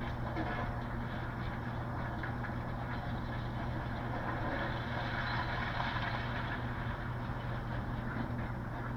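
Heavy diesel engine of demolition machinery running steadily, with a constant low hum and a rough, noisy clatter above it.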